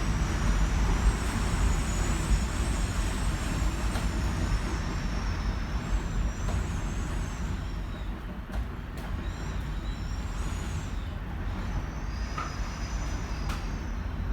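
Typhoon wind pressing on a high-rise apartment, heard from inside the room: a deep, continuous rumble with high, wavering whistles that come and go, and a few faint ticks.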